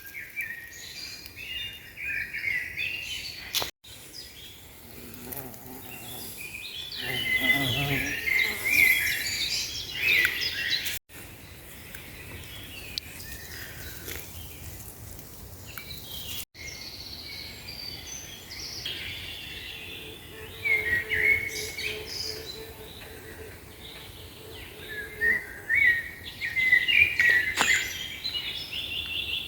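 Small songbirds chirping and singing outdoors, with many short high calls overlapping. The sound cuts off abruptly three times between takes.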